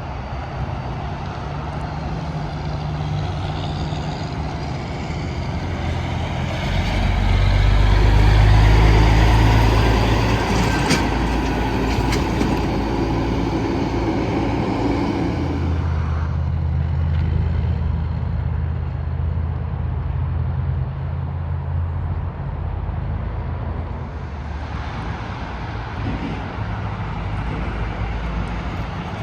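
Interstate traffic with semi trucks passing: a diesel truck's engine hum and tyre noise swell to their loudest about eight seconds in and fade, then another truck's low engine hum follows.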